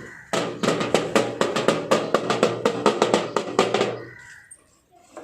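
Drums being played in a quick run of even strokes that stops about four seconds in.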